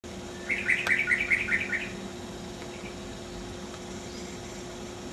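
Oriental dollarbird calling: a quick run of about nine harsh, chattering notes in about a second and a half, then stopping.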